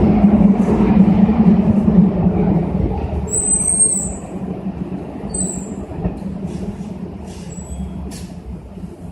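Keikyu 600-series electric train departing a station, its running rumble fading away from about four seconds in as it leaves. Two brief high-pitched squeals are heard about three and a half and five and a half seconds in.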